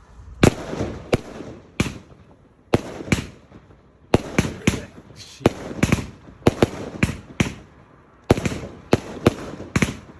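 Aerial firework shells bursting in a rapid, irregular string of sharp bangs, about twenty in all at roughly two a second, each with a short echo, with a brief lull near the end.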